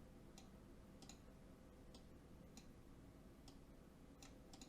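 Near silence with a handful of faint, irregularly spaced clicks from a computer mouse or keyboard.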